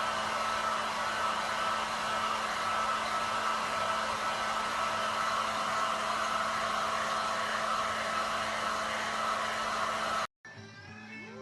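Steady whirring, rushing noise of a motor-driven appliance with a low steady hum, cutting off suddenly about ten seconds in.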